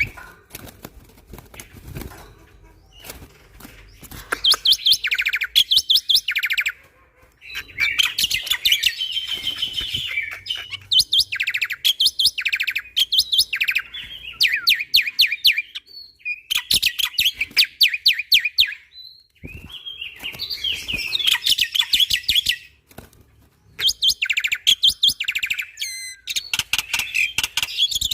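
Black-winged myna (jalak putih) singing in loud bursts, each a fast train of sharp, repeated chattering notes, with short pauses between phrases.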